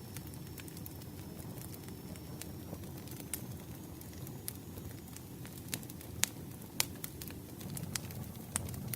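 Campfire burning: a steady low rumble of flames with scattered sharp crackles and pops of burning wood, the two loudest pops a little past halfway.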